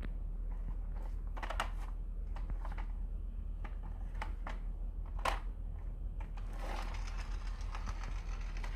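Wooden marble run: irregular clicks and short rattles as pieces roll and drop down the wooden slope tracks, with the sharpest click about five seconds in and a denser run of rattling near the end. A steady low hum lies underneath.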